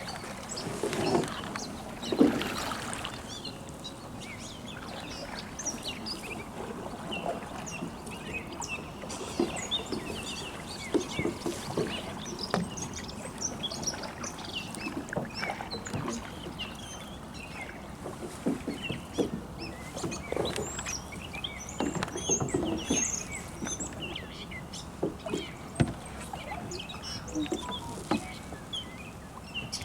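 Canoe paddling: paddle strokes in the water and occasional knocks of paddles against the canoe hull. Birds chirp throughout.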